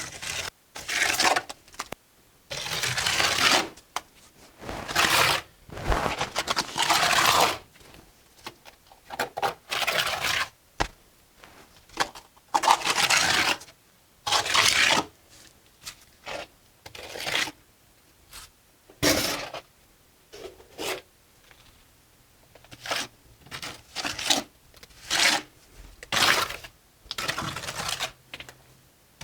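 Mason's trowel scraping mortar against brick, in a string of separate scrapes of a second or two each, with short quiet gaps between them.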